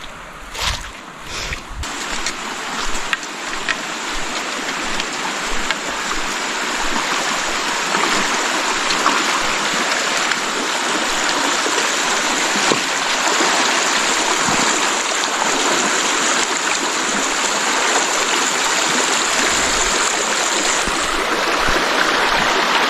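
Fast-flowing river water rushing steadily with a strong current, growing louder through the clip. A steady thin high-pitched tone runs over it and cuts off suddenly near the end.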